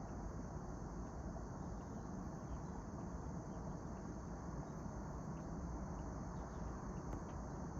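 Crickets trilling in a steady, unbroken high chorus over a low background rumble, with a few faint short chirps here and there.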